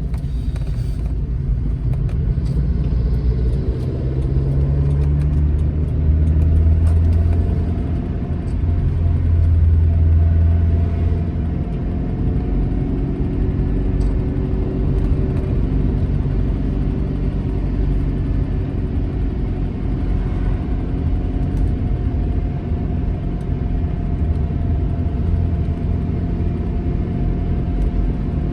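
Alfa Romeo GT Junior's twin-cam four-cylinder engine pulling the car along a mountain road. The engine note climbs and is loudest during roughly the first ten seconds, then settles into a steadier cruise.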